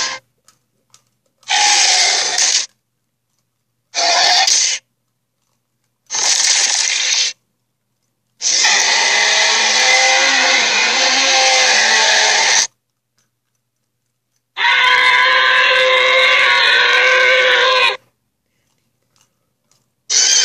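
Allosaurus roar sound effects played one after another with silent gaps between: three short raspy calls of about a second each, then two longer growling roars of about four and three seconds, and another call starting near the end. Each one starts and cuts off abruptly.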